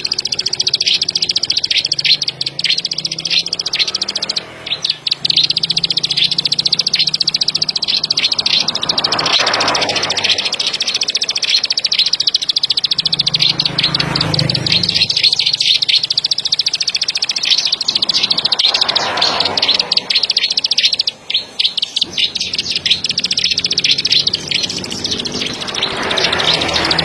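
Plain prinia (ciblek padi) singing: a long, nearly unbroken run of rapid, high repeated notes.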